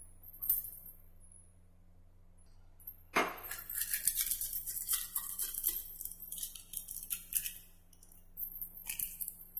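A plastic flour packet crinkling and rustling as it is handled, with bangles clinking on the wrist. It starts suddenly about three seconds in, eases off near eight seconds and picks up again just before the end.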